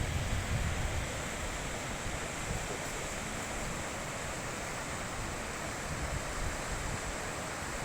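High-mountain river flowing: a steady, even rush of water, with a low wind rumble on the microphone fading out in the first half-second.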